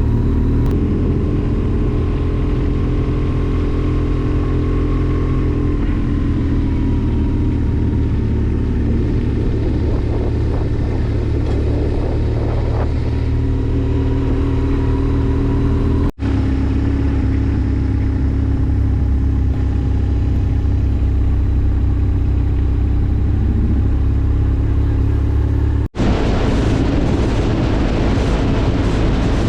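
Motorcycle engine running steadily while riding, its note shifting slightly a few seconds in. The sound cuts out briefly twice, and after the second break it turns rougher and noisier.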